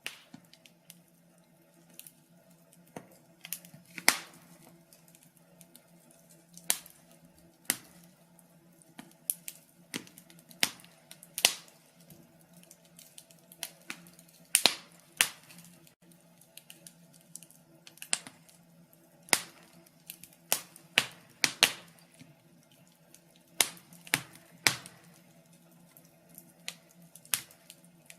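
Wood fire crackling in a fireplace: irregular sharp pops and snaps, about one a second, a few louder than the rest, over a faint steady low hum.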